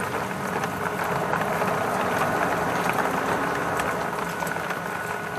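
Heavy rain falling on a plastic tarpaulin shelter overhead: a dense, steady patter of countless drops.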